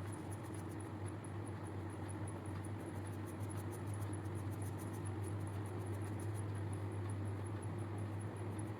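Steady low electrical hum with a faint high ticking about five times a second.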